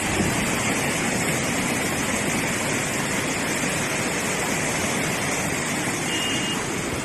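Floodwater from snowmelt rushing steadily, a continuous loud roar of water.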